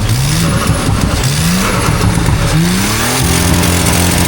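A car engine revving hard at a car meet: its pitch climbs in three quick rises and then holds steady near the end.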